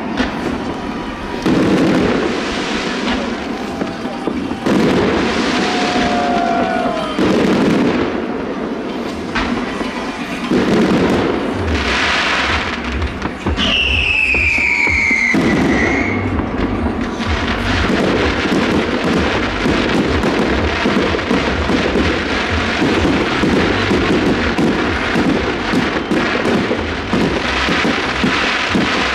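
Fireworks display: a series of sudden booming shell bursts in the first half, with a high falling whistle about halfway through, then a long stretch of dense crackling.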